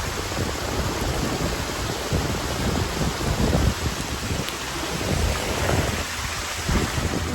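Strong wind and rain on an exposed mountain top: gusts buffet the microphone in irregular low rumbles over a steady hiss.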